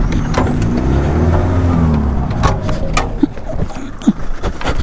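Off-road 4x4's engine revving up and easing back off, then several sharp knocks and clicks over the last couple of seconds.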